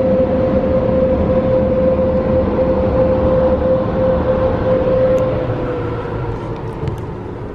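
Car wash tunnel dryer blowers running: a loud, steady rush of air with a strong whine that slides slightly down in pitch and fades near the end.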